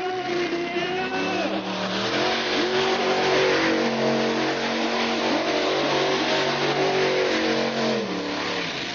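Monster truck engine revving: the pitch climbs about two seconds in, holds high with small rises and dips, and drops back near the end.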